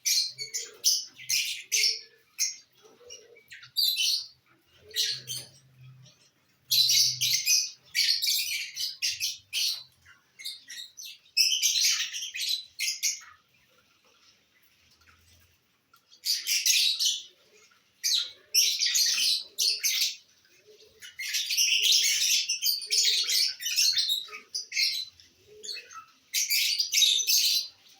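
Lovebirds chirping in shrill, rapid bursts, with a quieter pause about halfway through.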